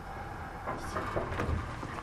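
Kintetsu 1000 series electric train running, heard from on board as it pulls away from a station: a steady low rumble, with wheel clatter starting under a second in and growing louder.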